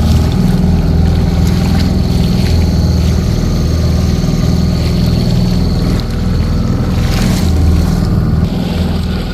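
Small outboard motor running at a steady cruising speed, pushing a small craft along.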